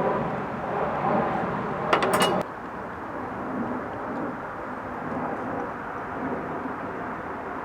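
A short rattle of glass clinks with a ringing tone, about two seconds in, over a steady low outdoor rumble that drops in level just after.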